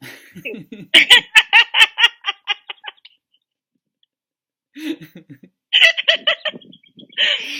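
People laughing in quick rhythmic pulses, about five a second, dying away after two seconds; after a silence of almost two seconds the laughter returns in two shorter bouts.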